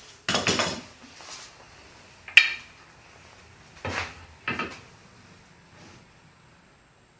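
Wood pieces and tools being handled and set down on a workbench: a few separate knocks and clatters, one with a short metallic clink about two and a half seconds in.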